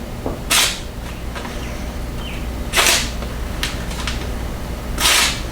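Freshly sharpened Leatherman multi-tool blade slicing through thin magazine paper: three short, high-pitched swishes a little over two seconds apart.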